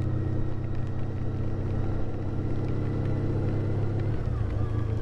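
Honda ST1300 Pan European's V4 engine running steadily on the move, a deep even rumble whose note shifts slightly about four seconds in.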